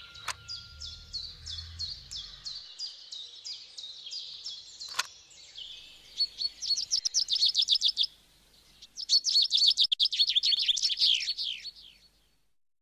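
Birdsong: a steady series of short chirps, about six a second, then two louder spells of rapid trilled notes. There is a single sharp click about five seconds in.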